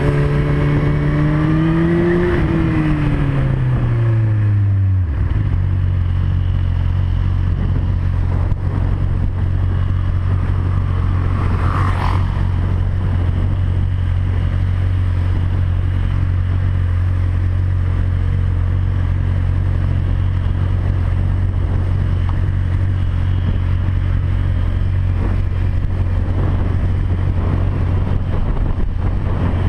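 Motorcycle engine running: its note rises a little, then drops away over the first five seconds as the bike slows. A steady low drone follows for the rest, with a brief sharp sound about twelve seconds in.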